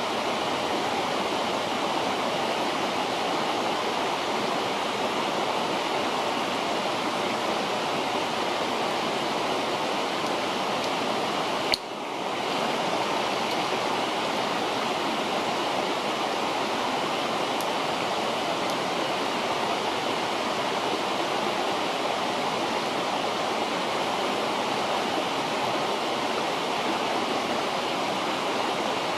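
River water rushing steadily. About twelve seconds in there is a single sharp click with a momentary dip in level.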